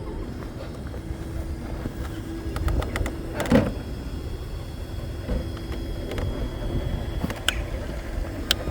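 Axial SCX6 Honcho RC rock crawler's sensored electric motor and geared drivetrain whining steadily as it crawls over rocks, with a few sharp clicks and knocks.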